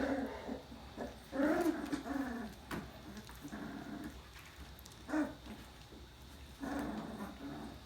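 Puppies about two and a half weeks old crying in several short pitched calls, the longest about a second and a half in and near the end.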